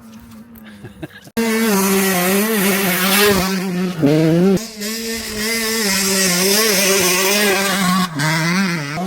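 125cc two-stroke motocross bike engine being ridden hard, its pitch rising and falling with the throttle and dipping briefly at gear changes. It comes in suddenly about a second and a half in, after a quieter start.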